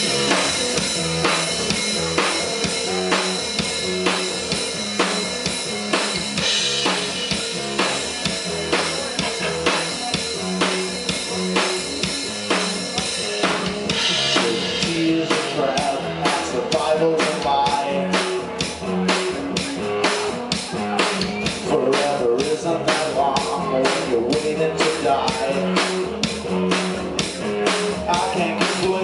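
Band playing an instrumental intro live, with the drum kit to the fore: cymbal wash at first, then from about halfway a steady, even beat of drum hits.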